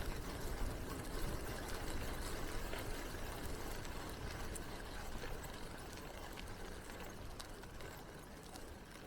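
Rolling noise of a bicycle ride: tyres on the path and wind on the microphone, a steady low rumble that slowly gets quieter.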